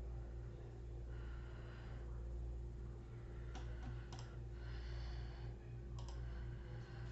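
A few sharp computer mouse clicks around the middle and near the end, with two soft breaths, over a steady low electrical hum.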